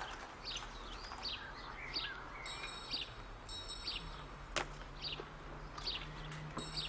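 Small birds chirping in short, quick calls over and over, with one sharp knock about halfway through.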